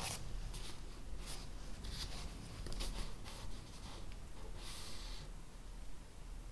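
Handwriting on paper: a string of short scratchy strokes through the first five seconds, with one longer stroke near the end, over a low steady hum.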